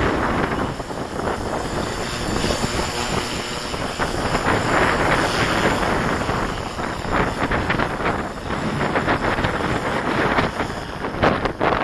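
Wind buffeting the microphone in gusts, over the running of a 450-size radio-controlled helicopter.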